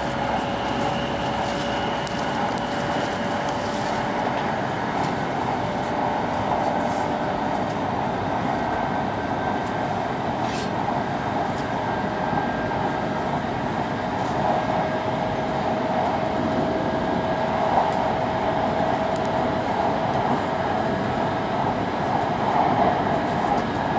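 Cabin noise inside an E5 series Shinkansen running at speed: a steady rush with a thin whine that slowly rises in pitch.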